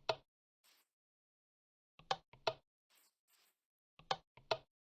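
Sharp knocks of hard objects, in pairs about every two seconds, with faint brief scraping sounds between them.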